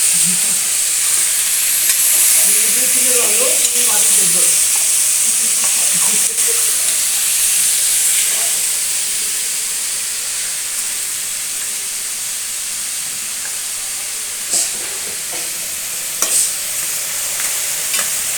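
Food sizzling in hot oil in a cooking pan, a steady hiss, with a few sharp clicks of a spoon against the pan near the end.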